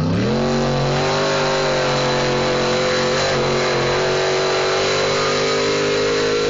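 Racing boat engine revving up in the first half-second, then running loud at a steady high pitch through the run.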